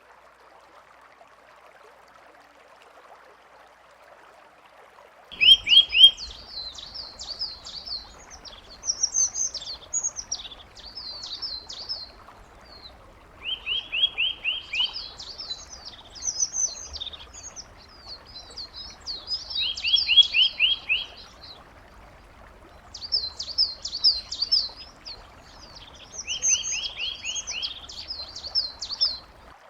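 A small songbird singing, starting about five seconds in: about four phrases, each opening with a quick trill and running into high, rapid warbling notes, over a faint steady hiss.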